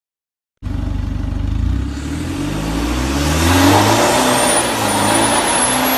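Diesel truck engine cutting in abruptly after a brief silence, then accelerating with the pitch and loudness climbing. A thin high whistle rises in about four seconds in.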